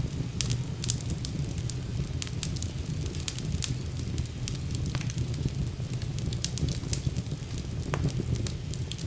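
Wood fire burning in a fireplace, with a steady low rumble of flames and frequent sharp crackles and pops scattered throughout.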